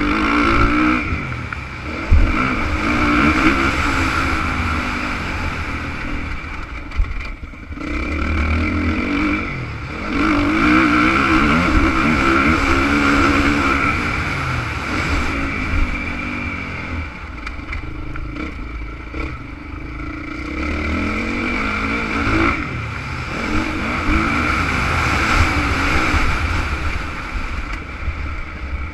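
Honda CRF450 motocross bike's single-cylinder four-stroke engine revving hard and easing off again and again as it is ridden, with brief drops to low revs a few times.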